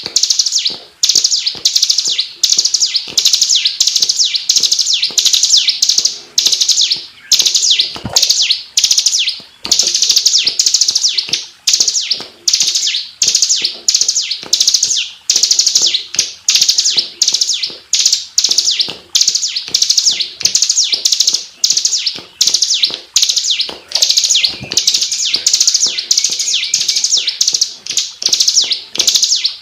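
Bar-winged prinia (ciblek) singing a dense, unbroken run of rapid, short, high-pitched notes, each dropping slightly in pitch, with only brief gaps. This is the rapid, tightly packed 'ngebren' style of song prized in contest birds.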